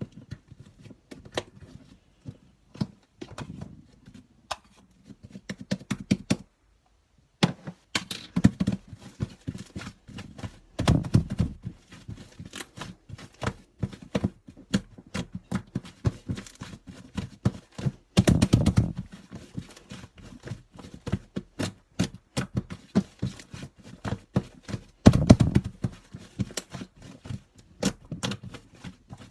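Sticky slime being squeezed and pressed by hand, giving a dense run of sticky clicks and pops. There is a brief pause about six seconds in, and a few louder squelches come later.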